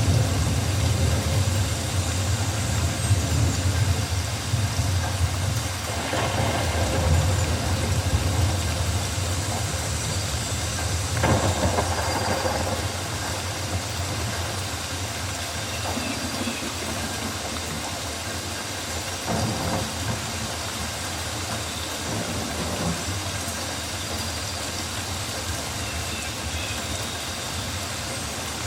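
Rainforest ambience: steady rain hiss with a low rumble underneath that eases off about halfway through, and a few brief swells.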